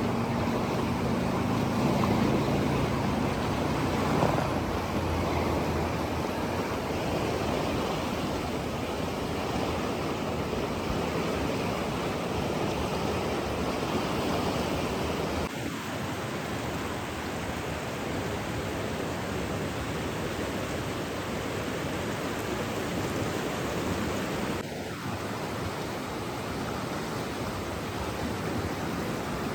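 Steady rushing water noise, an even hiss with no distinct drops or splashes, with a low hum that fades out over the first four seconds or so. Two brief falling sweeps about halfway through and near the end come with slight shifts in the noise.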